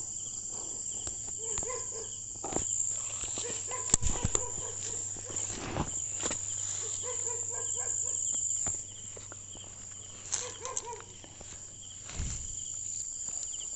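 Crickets trilling in a steady, high-pitched chorus, with a few footsteps and knocks from someone walking.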